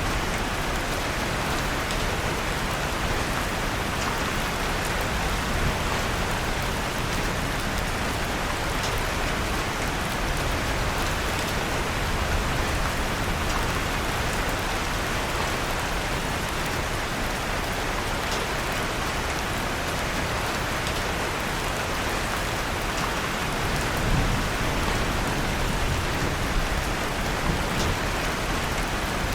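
Steady rain falling, an even unbroken hiss, with a few faint crackles of a wood fire in a fireplace scattered through it.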